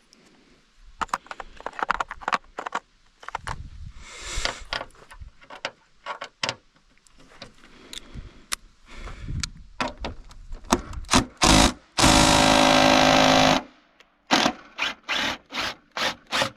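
Cordless drill/driver spinning up in a few short trigger pulls, then running steadily for about a second and a half on a bumper bolt. Clicks and clatter of sockets and tools come before and after.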